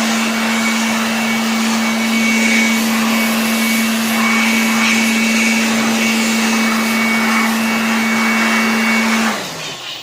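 Electric dust blower running steadily with a high whine, blowing dust out of a keyboard's keys; about nine seconds in it is switched off and winds down.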